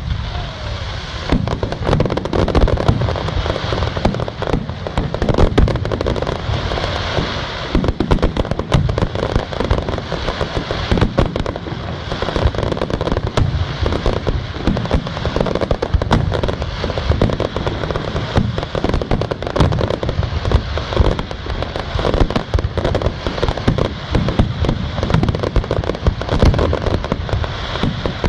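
Aerial fireworks display: a dense, continuous barrage of bangs and crackling shells with no pauses.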